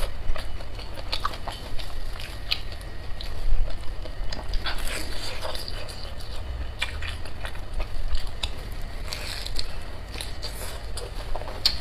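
Close-miked biting and chewing of a pan-fried Chinese chive pocket (jiucai hezi) filled with chives, egg and glass noodles. It comes as irregular short clicks and mouth noises, over a steady low hum.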